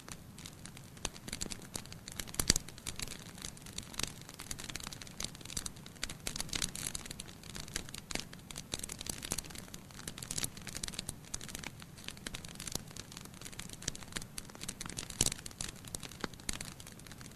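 Wood fire in a fireplace crackling, with irregular sharp pops and snaps over a soft steady hiss; one loud pop about two and a half seconds in and another near the end.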